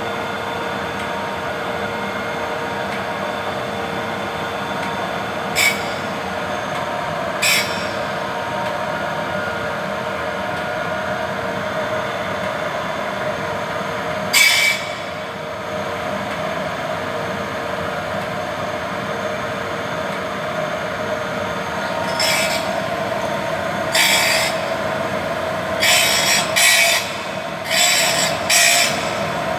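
Vollmer saw-blade sharpening machine running with a steady hum, its grinding stone meeting the saw teeth in short grinds: a few scattered ones at first, then about one a second near the end as the stone is lowered down to reach the blade.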